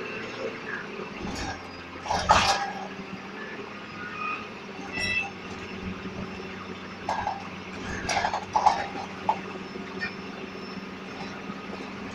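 DAF SB120 Cadet single-deck bus with its engine running steadily, with loud rattles and clunks about two seconds in and again around seven to nine seconds. A short run of high electronic beeps sounds about five seconds in.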